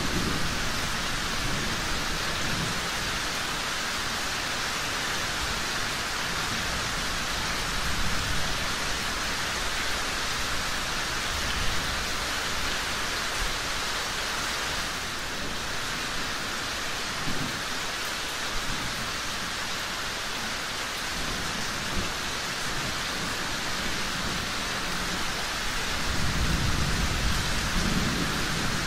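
Steady rain pouring, with low rolls of thunder rumbling underneath; a longer, louder roll comes near the end.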